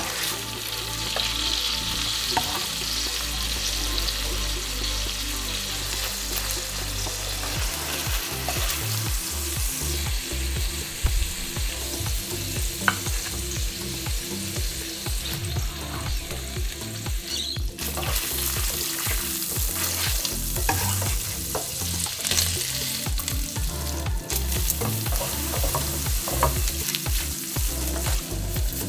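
Chicken breasts and bacon frying in oil and butter in a pan: a steady sizzle with scattered sharp pops.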